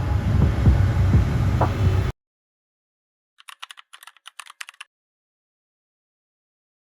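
Road traffic noise heard from inside a car in congested city traffic, a steady rumble that cuts off suddenly about two seconds in. After a short silence comes a brief flurry of quick, irregular clicks, then silence.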